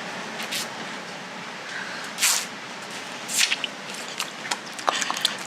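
Fresh water in a cave pool: steady splashing with two louder sloshes about two and three and a half seconds in, and several sharp drips toward the end.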